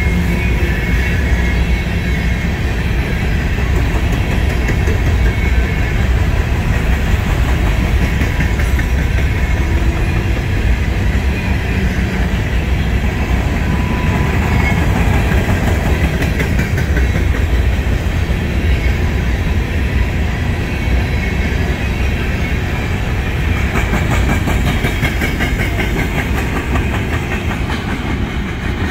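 Norfolk Southern covered hopper cars of a freight train rolling past at speed: a steady heavy rumble of wheels on rail, with clicking over the rail joints that grows rapid and plain near the end.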